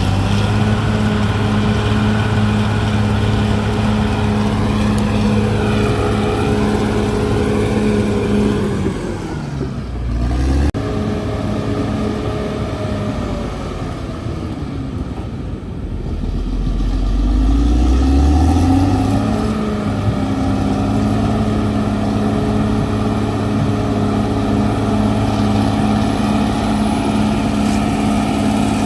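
CAT D6R XL bulldozer's diesel engine running steadily at high revs. About nine seconds in the engine note drops and stays low for several seconds, then climbs back up to full speed at around twenty seconds.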